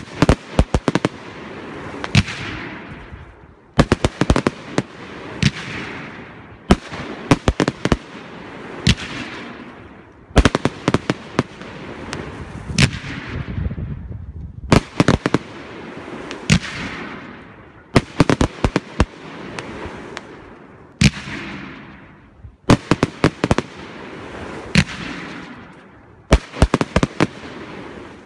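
Fireworks display: aerial shells bursting in volleys, each a quick run of sharp bangs. The volleys come every couple of seconds, and each trails off in a fading hiss.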